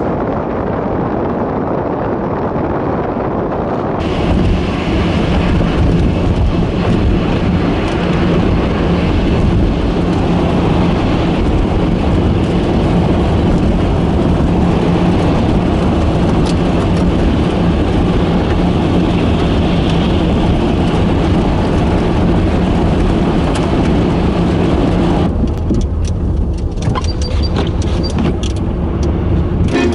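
Outdoor blizzard ambience in the city: a steady rushing noise with a steady low motor hum beneath it. The sound changes abruptly about four seconds in and again near the end, where scattered clicks come in.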